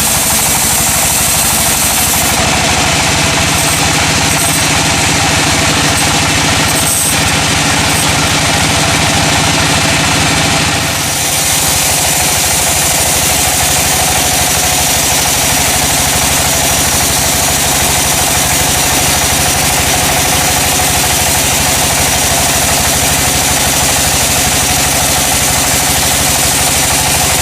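Sawmill machinery running steadily with an engine-like hum and vibration. It dips briefly about eleven seconds in, then carries on with a slightly changed tone.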